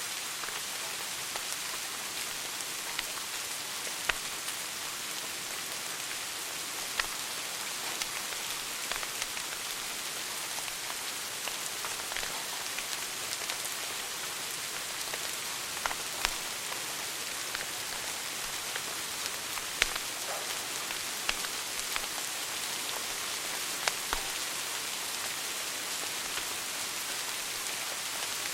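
Wood fire burning in a fireplace: a steady hiss with scattered crackles and a few sharper pops.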